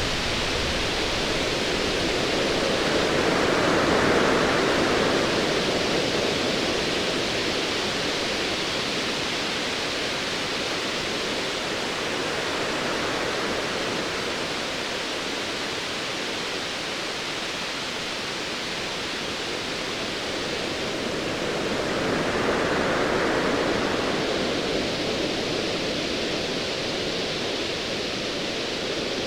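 Ocean waves washing in a steady hiss that swells twice, about four seconds in and again a little after twenty seconds.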